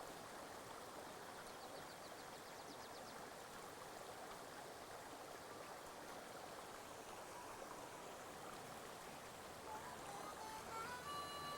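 Mountain stream flowing: a steady, even rush of water. Near the end, a few high held tones come in over it.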